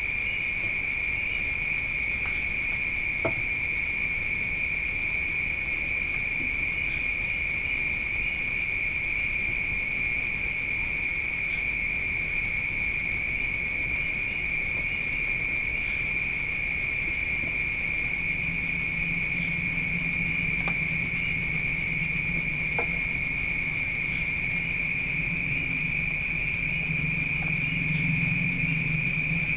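Steady, high-pitched chorus of night insects, such as crickets, running without a break. A faint low hum joins about two-thirds of the way in.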